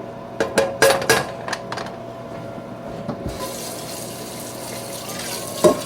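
A few clinks of kitchenware, then a kitchen tap turned on about three seconds in, water running steadily into the sink.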